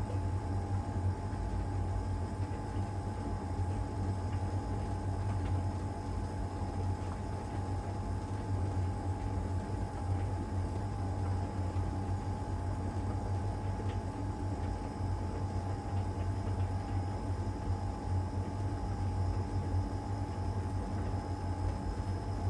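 LG heat pump tumble dryer running steadily in the Cupboard Dry stage of its drying cycle, the drum turning with the heat pump and fan going. It is a constant low hum with a steady mid-pitched tone over a hiss, unchanging throughout.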